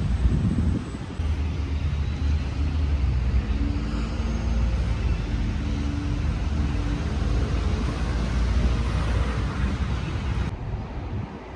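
City street traffic with a motor vehicle's engine running close by, a steady low rumble. The level drops abruptly near the end.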